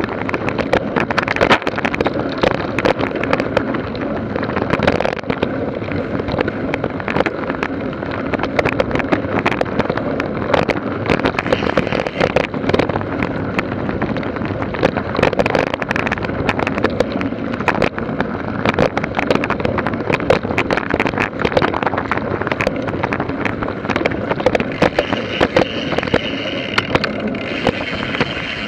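Mountain bike ridden over rough, bumpy ground, heard up close: a continuous rattle of rapid clicks and knocks over tyre and wind noise.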